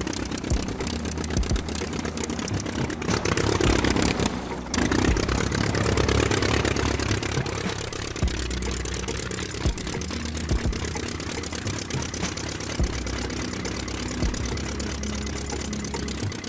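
Small engine of a homemade mini tractor running steadily, with scattered sharp clicks and knocks.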